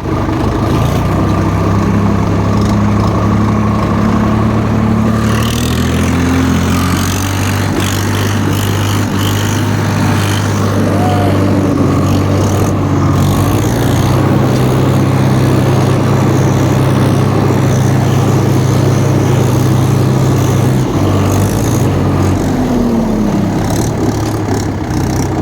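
Tractor diesel engine running steadily under heavy load while towing, with a low, even drone. Its pitch sags near the end.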